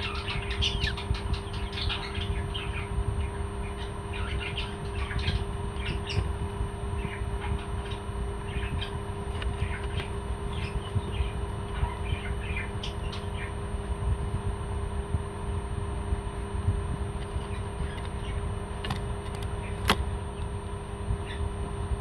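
Parrots chirping and squawking in short, scattered calls, busiest in the first half, over a steady low hum. A single sharp click about twenty seconds in.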